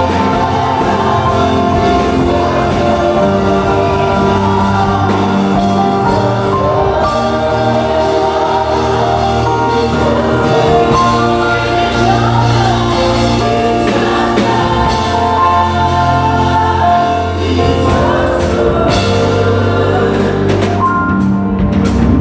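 Gospel worship music: a group of voices singing over a band with a steady bass line.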